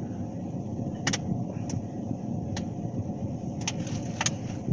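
Steady low rumble of a vehicle engine running, with a faint steady hum and a handful of short, sharp clicks scattered through it.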